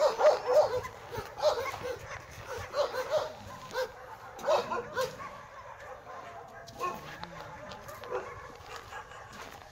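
Dogs barking: short, high barks in quick runs, thickest in the first five seconds and thinning out toward the end.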